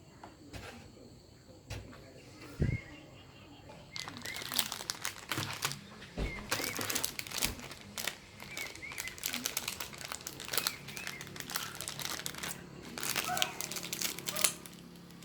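Grape candies crinkling and crackling in dense runs of sharp clicks from about four seconds in, after a quieter start with a single low thud.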